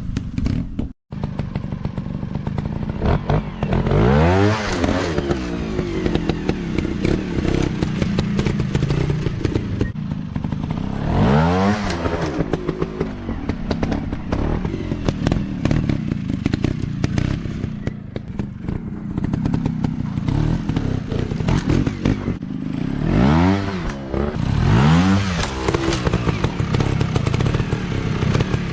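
Dirt bike engine running under load with clattering. It revs up and back down in bursts about four seconds in, near twelve seconds, and twice in quick succession around twenty-three to twenty-five seconds.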